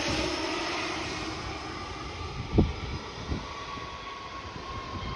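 Jet aircraft's engines after a smooth landing, a steady rushing noise slowly fading with a faint steady whine above it. A brief thump about two and a half seconds in.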